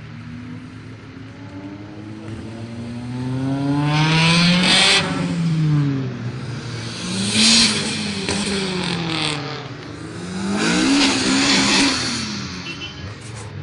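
Mazda Miata's four-cylinder engine revved hard while drifting, surging three times with the pitch climbing and falling back each time. A hiss of sliding tyres comes at each peak.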